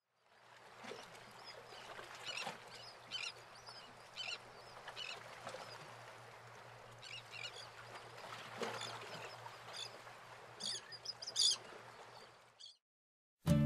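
Birds calling in short, repeated cries over a steady noisy background with a low hum. The sound fades in at the start and stops about a second before the end.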